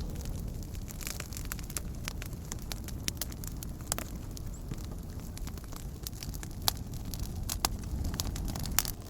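Wood campfire crackling: irregular sharp pops and snaps, a few louder ones standing out, over a low steady rumble.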